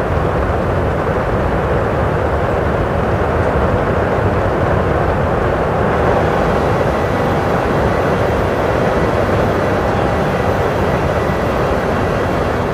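Steady cabin noise of a Boeing 737 in the climb after takeoff: engine and airflow noise, with a faint steady whine coming in about halfway through.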